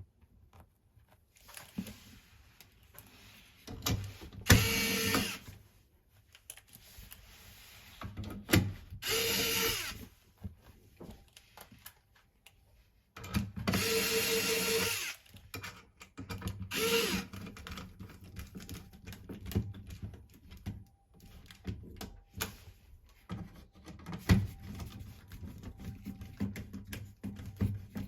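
Cordless power driver running in four short bursts of about one to two seconds each, with small clicks and knocks of tools and fittings handled in between.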